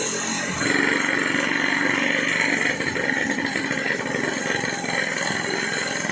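Yamaha RX-King two-stroke single running under way through a gutted (baffle-removed) muffler, mixed with wind noise on the microphone. The sound grows louder and brighter about half a second in.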